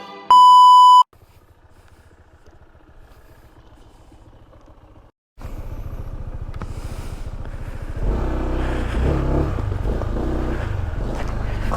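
A loud electronic beep lasting under a second, then a motorcycle engine running quietly with a steady low pulse. After a brief cut it runs louder, picking up again about eight seconds in as the bike gets under way.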